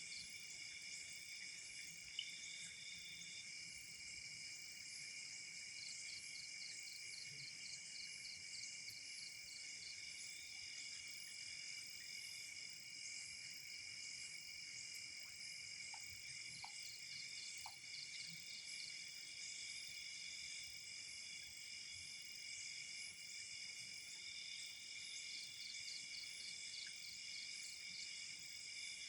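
Night insect chorus of crickets: steady high trilling, with pulsed chirping that comes and goes. A single sharp click sounds about two seconds in.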